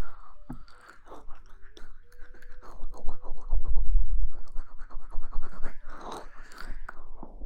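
ASMR rustling and scratching close to the microphone: a dense, irregular run of crackles with a few soft low thumps.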